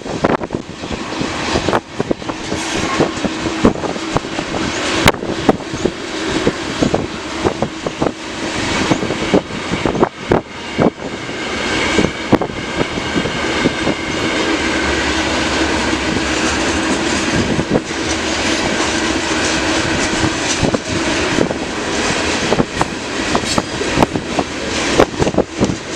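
CN manifest freight train rolling past, its wheels clacking and clicking steadily over the rails, with wind buffeting the microphone.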